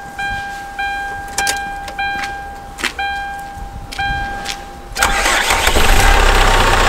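The Hyundai Starex's dashboard warning chime dings about every two-thirds of a second, a sign that the van has electrical power with the main battery disconnected, while the ignition key clicks. About five seconds in, the engine cranks and catches, then keeps running, started from the auxiliary battery through the emergency jump function.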